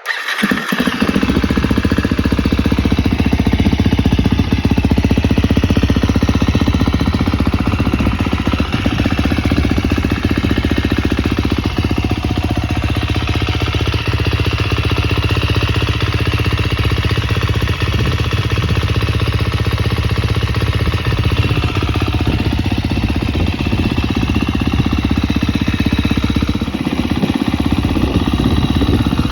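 2023 KTM 250 SX-F dirt bike's single-cylinder four-stroke engine running through an Akrapovic Evolution Line exhaust, loud and steady.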